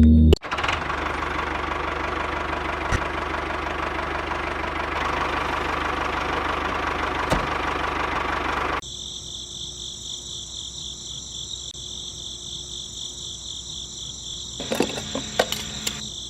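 A small electric motor of a DIY model tractor running steadily, then cutting off about nine seconds in. A quieter, high-pitched whine with a fast flutter follows.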